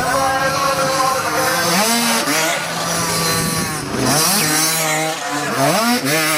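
Motocross bike engine revving hard, its pitch sweeping up three times with steadier stretches in between, as when a rider accelerates through the gears.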